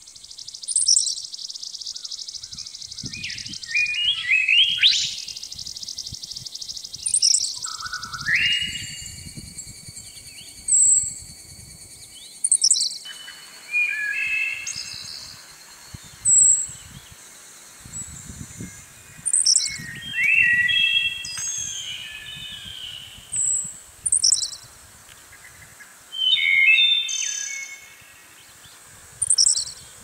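Songbirds singing and calling: short whistled phrases, chirps and fast trills, one after another.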